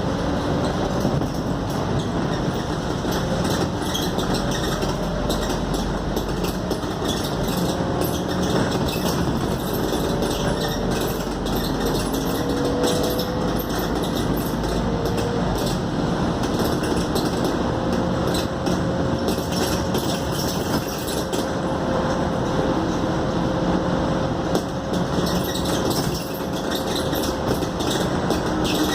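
Scania K280UD double-decker bus under way, heard from inside: a steady mix of engine and road noise, with a faint whine that slowly rises and falls in pitch as the bus changes speed.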